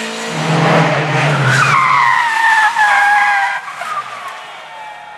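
Race car tyres skidding and squealing, the squeal falling in pitch, for about two seconds, over the engine's low running note; after the squeal ends, a little past the halfway point, the sound dies down.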